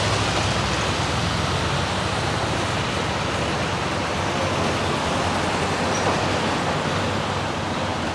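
Freight train on the rails with a steady rumble and rolling noise, mixed with cars and a pickup truck driving over the grade crossing.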